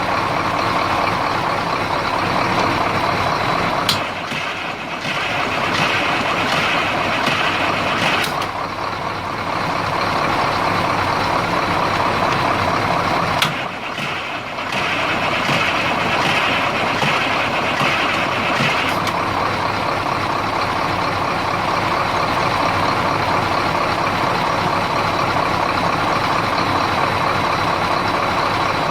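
Detroit Diesel 8.2-litre V8 diesel engine running after its first start following a top overhaul. The level drops briefly twice, with a sharp click at the start of each dip, about four and about thirteen and a half seconds in.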